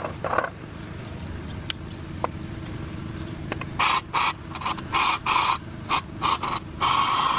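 A motor-driven machine run in a string of short stop-start bursts from about halfway through, then left running steadily near the end, over a low steady hum.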